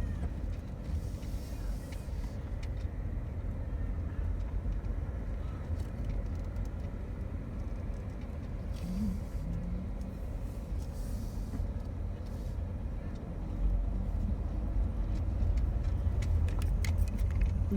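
Minivan driving along a road: steady low engine and road rumble that grows a little louder near the end.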